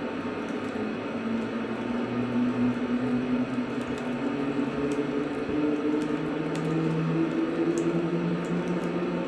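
N-gauge model train running on its track: the small electric motor whines in several pitches that climb and shift as it picks up speed, over a steady rolling noise with scattered light ticks.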